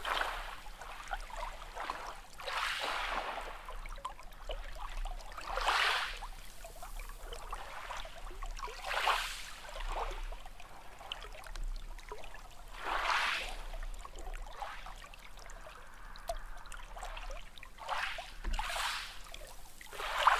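Small sea waves washing in. A swell of splashing water comes every few seconds, about seven times, over a steady watery wash.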